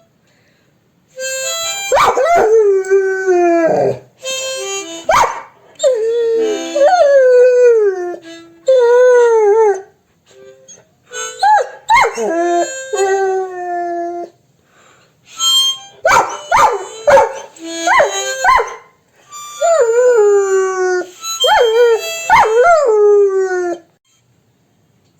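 A Labrador retriever howling, 'singing' in a series of drawn-out wavering howls that slide down in pitch, in several bouts broken by short pauses.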